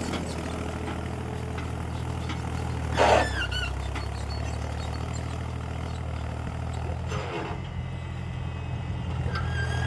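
Tractor diesel engine idling steadily. A brief louder sound with a wavering pitch comes about three seconds in, and a short noisy burst about seven seconds in.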